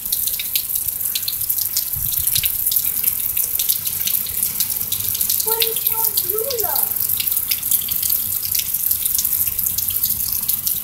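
Heavy rain pouring down, a steady hiss dotted with many sharp close drop hits.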